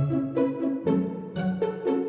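Background music: plucked and bowed strings playing a light, bouncy tune with a steady beat.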